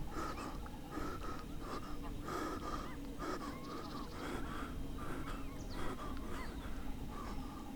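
European badger snuffling and grunting close by, in short sounds repeated over and over.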